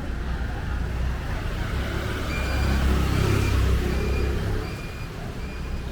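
Motor vehicle engine passing close in street traffic, its rumble swelling to its loudest around the middle. From about two seconds in, a short high electronic beep repeats evenly, about one and a half times a second.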